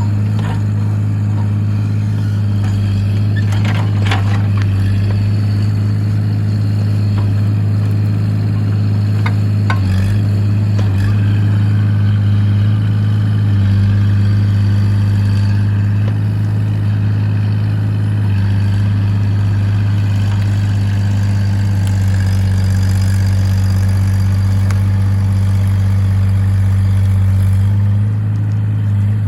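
Excavator's diesel engine running steadily under work, with a few knocks and clanks, the clearest about four seconds in and again around ten seconds in.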